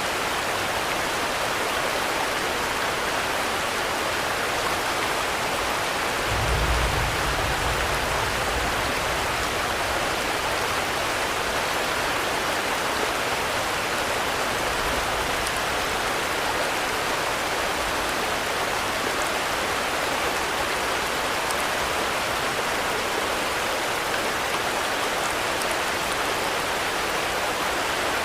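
Steady rain falling, an even unbroken hiss. A brief low rumble rises about six seconds in and fades over a few seconds, with a fainter one later.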